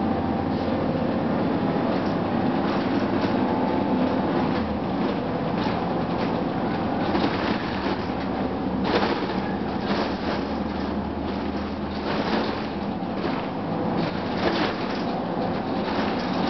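Inside a 2004 Gillig Phantom transit bus: the Cummins ISM diesel and road noise make a steady drone, with frequent rattles and knocks from the body.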